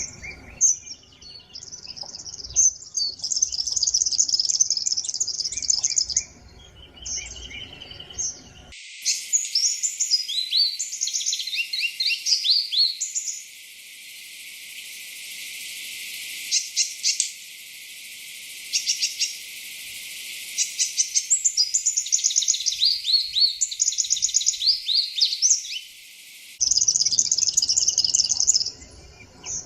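Sunbirds calling: rapid high-pitched chirps and twittering trills. Through the middle stretch the recording changes, sounding thinner and hissier, with quick downward-sweeping notes and fast clicking rattles.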